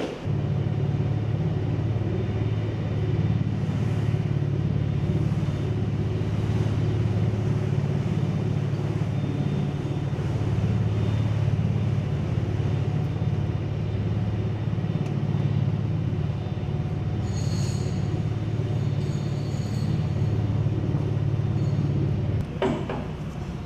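Heavy fire truck's engine running, a steady low rumble that cuts off abruptly near the end.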